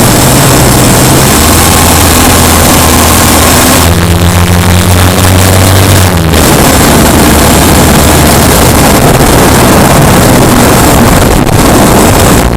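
Subaru Impreza Sport's boxer four-cylinder engine running under way, picked up from the engine bay, loud. The engine note drops about a second and a half in and steps up higher around four seconds. From about six seconds on, a rough, noisy rumble takes over.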